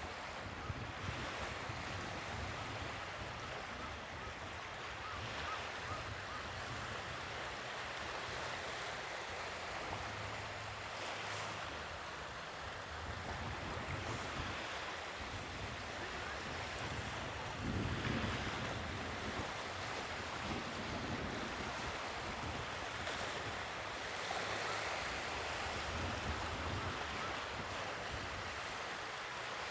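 Sea waves washing ashore in a steady wash that swells and falls, louder once about two-thirds of the way through, with wind rumbling on the microphone.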